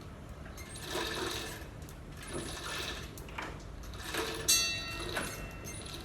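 Metal clinking and clanking as an engine is lowered into place, with one sharp ringing metal clank about four and a half seconds in, over a steady low hum.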